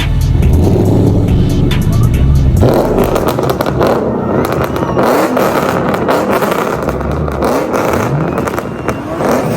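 A car's engine and exhaust running, with a heavy low rumble at first, then a denser crackling noise from about two and a half seconds in; music plays along with it.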